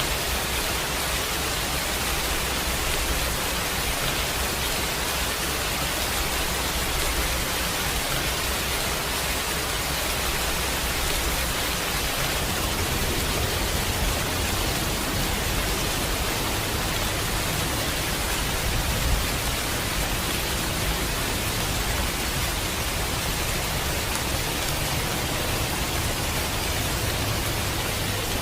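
Steady heavy rain, an even hiss with a low rumble beneath it.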